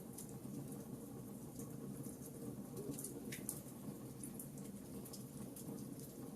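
Wood fire burning in a fireplace, with scattered small crackles and pops over a steady low background.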